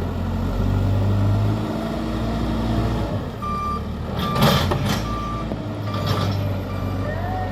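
JCB backhoe loader's diesel engine running, swelling briefly about a second in, then its reversing alarm beeping at a steady pace from about halfway through. Two sharp metallic clanks come in the middle.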